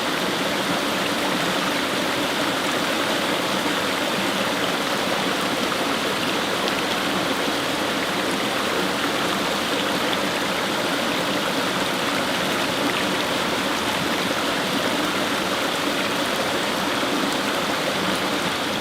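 Fast-flowing brook: water rushing and babbling over stones in a steady, unbroken wash.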